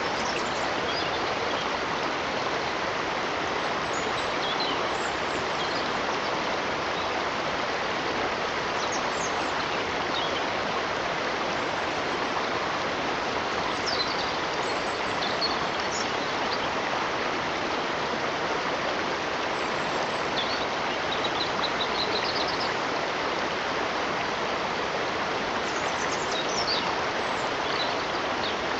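Running water rushing steadily, with faint, brief bird chirps now and then, including a quick run of rising notes about two-thirds of the way through.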